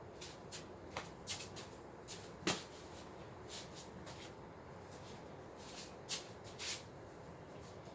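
Scattered light clicks and knocks from handling parts of a baby crib being assembled, irregular, with the sharpest knock about two and a half seconds in.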